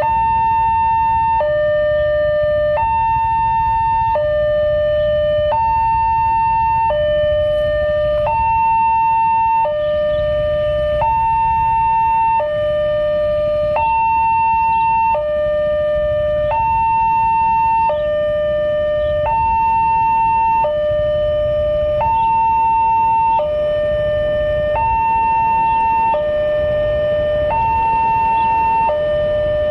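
Electronic warning alarm of an Indonesian railway level crossing sounding continuously. It alternates between a higher and a lower tone, each held about a second and a half, signalling that a train is approaching.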